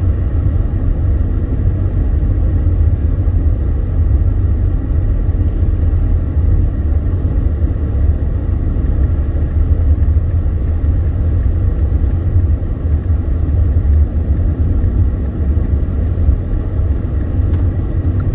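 Steady low rumble of a car driving, heard from inside the cabin: engine and tyre road noise on a snowy road.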